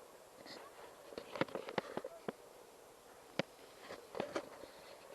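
Irregular sharp clicks and taps of something being handled, about a dozen in scattered clusters, with no motor running.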